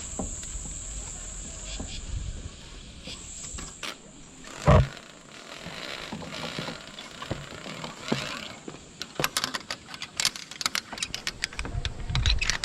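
Steady high insect buzz typical of crickets in a rainforest, with a single loud thump about a third of the way in, then a run of quick clicks and rattles near the end.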